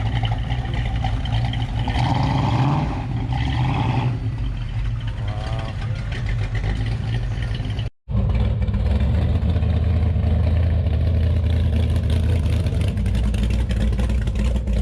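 Classic Mopar muscle car engines running with a deep, steady low rumble. The sound cuts out briefly about eight seconds in, and the rumble is heavier after it.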